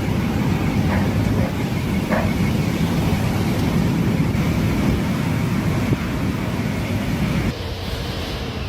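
Storm-force wind rushing and buffeting the microphone in a steady, heavy low rumble, changing abruptly about seven and a half seconds in as another clip of the storm begins.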